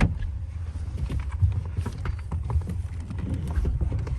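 Low rumble of a car heard from inside the cabin, with a knock right at the start and many small scattered knocks and rustles as people shift around in the seats.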